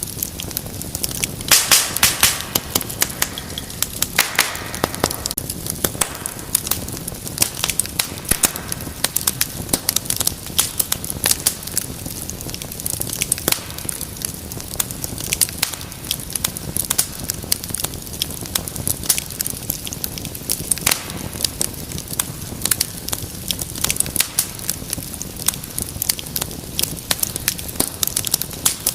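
Wood fire crackling steadily, with frequent sharp pops and a quick cluster of louder pops about two seconds in, over a constant low rush of burning.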